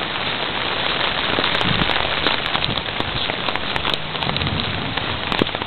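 Heavy rain falling and splashing on a flooded street and yard, a dense steady patter with many sharp drop hits.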